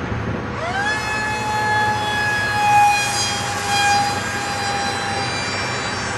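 Electric motor and propeller whine of a 42-inch RC flying wing, rising in pitch about half a second in as the throttle comes up, then holding steady and swelling louder twice.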